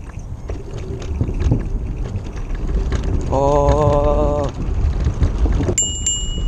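Wind buffeting the microphone while riding at speed, a steady low rumble. Near the end come two quick metallic dings that ring on briefly.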